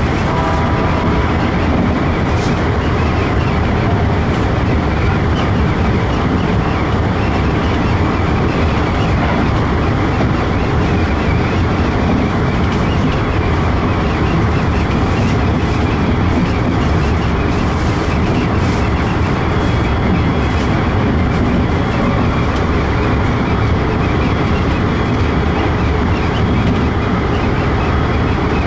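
Keikyu New 1000 series electric train running along the line, heard from inside the driver's cab: a steady rumble of wheels on rail and running gear, with a few faint clicks.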